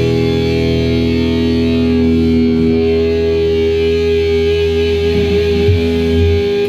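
Rock music: a distorted electric guitar chord held and ringing out, which cuts off suddenly at the end.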